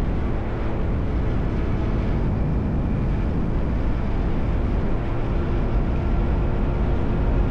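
Yamaha R1 inline-four engine through an SC-Project aftermarket exhaust, running at a steady pace while riding, with no clear revs or gear changes.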